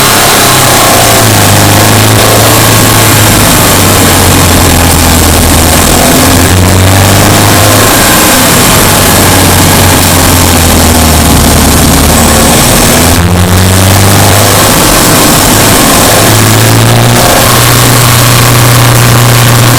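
Subaru Impreza Sport's flat-four engine pulling a car along a forest road, its pitch stepping up and down as the throttle changes, with a short lift about two-thirds of the way through. Loud tyre and road noise runs under it.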